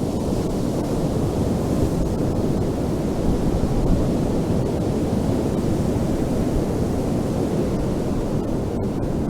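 Ocean surf washing onto a beach: a steady, low, unbroken wash of noise with no distinct breaks.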